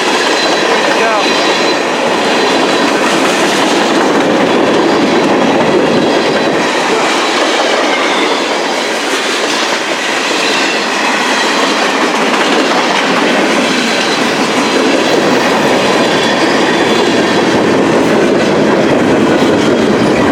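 Freight cars of a CN mixed freight train rolling past at slow speed: a steady rumble and clatter of wheels on the rails, with a faint high ringing from the wheels.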